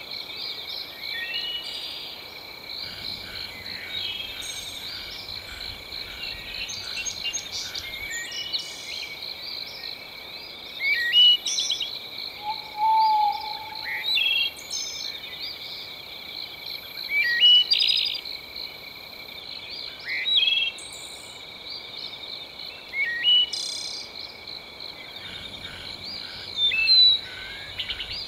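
Night nature ambience: frogs and insects trilling in a steady, pulsing chorus, with loud, short, rising bird chirps breaking in every few seconds from about a third of the way through.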